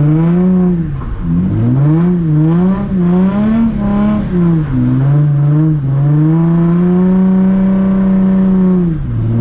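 Nissan 350Z's VQ35 V6 engine revving up and falling back several times, with sudden drops in revs, then holding high revs steadily for about three seconds before dropping again near the end.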